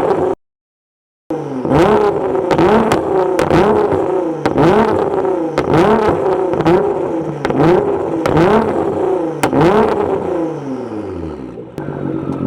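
Nissan GT-R with a straight-through Linney drag exhaust and a pops-and-bangs tune, revved in quick repeated blips: each blip rises and falls ('wah, wah, wah') with sharp exhaust cracks and bangs between them. After a brief dropout near the start, it goes about a dozen times, then the revs drop back to idle near the end. The result is really loud.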